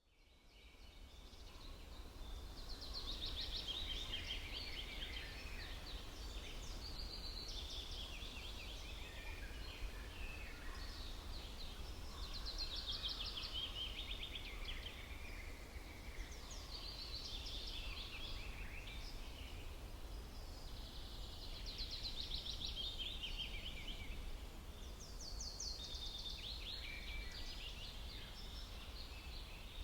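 A songbird singing in repeated phrases of fast, trilling notes that fall in pitch, a new phrase every four or five seconds, over a low steady rumble of background noise. The sound fades in over the first couple of seconds.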